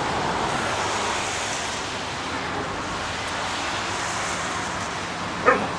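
Steady rain falling, an even hiss, with a short vocal sound near the end.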